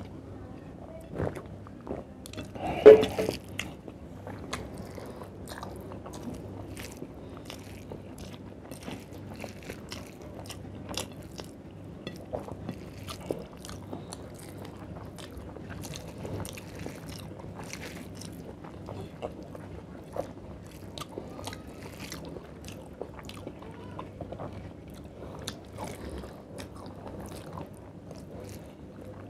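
Close-up eating sounds of a person chewing rice and chicken curry eaten by hand: steady chewing with many short, wet mouth clicks and smacks. One louder knock comes about three seconds in.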